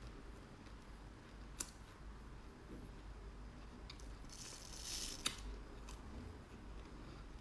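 Faint close-up eating sounds of black sesame seeds being crunched and chewed, with two sharp clicks and a brief crackle just before the second.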